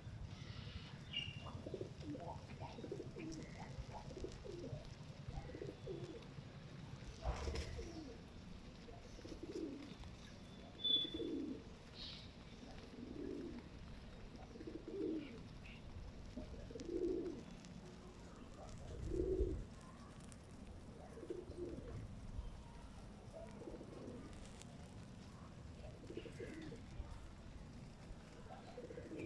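Domestic pigeon cooing: low coos repeated every second or two, with a short high chirp about eleven seconds in.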